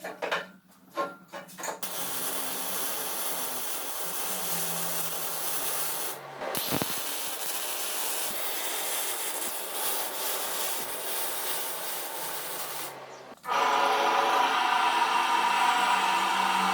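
Abrasive sanding or grinding with a power tool, a steady rasping noise after a few knocks at the start. It breaks off briefly about six seconds in and gets louder, with a ringing tone, near the end.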